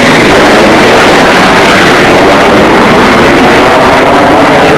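A military fast jet's engines running very loud and steady in a dense roar that overloads the microphone.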